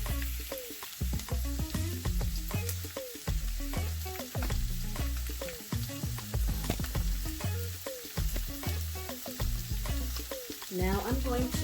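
Red and green bell peppers and sweet onion sautéing in a hot skillet: a steady frying sizzle.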